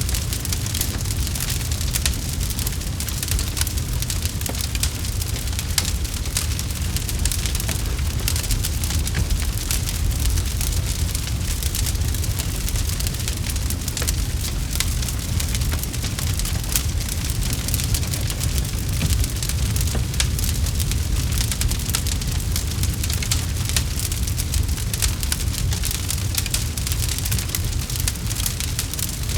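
Campfire crackling: many small snaps and crackles, unbroken, over a steady low rumble.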